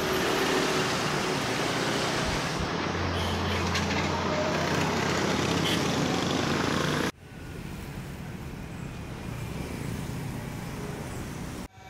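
Street traffic: cars and motor scooters passing, with a steady low engine hum in the middle. About seven seconds in, the sound cuts abruptly to quieter traffic.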